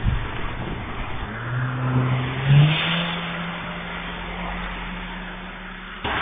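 A car engine revving hard as it accelerates, its pitch rising for about a second, then holding a steady higher note that slowly fades, over the hiss of traffic.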